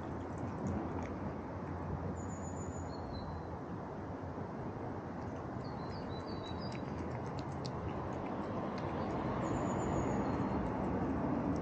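A few short, high bird chirps, in three small groups, over a steady low rumble and hiss of outdoor background noise that grows slightly louder near the end.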